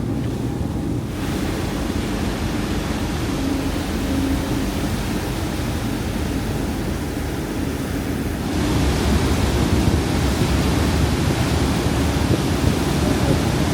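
Steady rumble of the LevanteJet high-speed catamaran ferry under way, with rushing water and wind across the microphone. The hiss of wind and water grows louder about two thirds of the way through.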